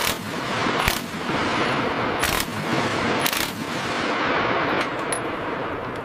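A steady hiss over a low hum, broken by about five sharp knocks spread through it.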